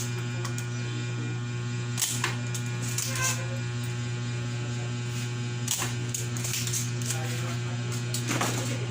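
Steady low electrical mains hum with even overtones, broken by a few sharp clicks of tools or parts being handled.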